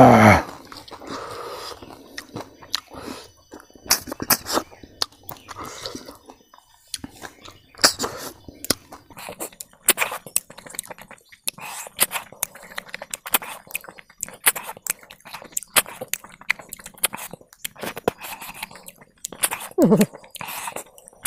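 Close-up eating sounds of crispy fried grasshoppers and rice: many short, sharp crunches and wet chewing and lip smacks. A loud sound slides down in pitch right at the start, and a shorter falling one comes near the end.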